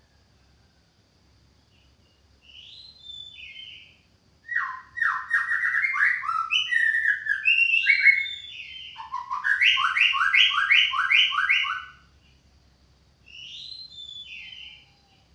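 White-rumped shama singing: a soft short phrase, then a loud run of varied whistled notes ending in a quick series of repeated two-tone notes, and another soft phrase near the end.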